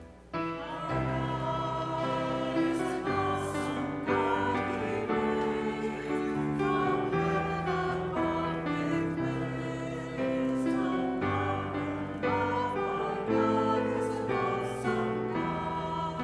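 Church music: voices singing a slow hymn or anthem over sustained instrumental chords, the bass note changing every second or two.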